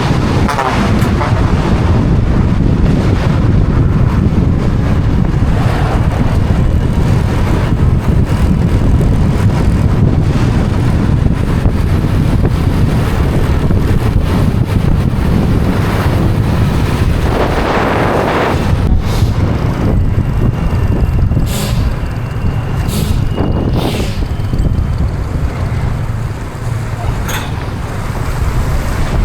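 Motorbike riding at speed: heavy wind buffeting the microphone over engine and road noise.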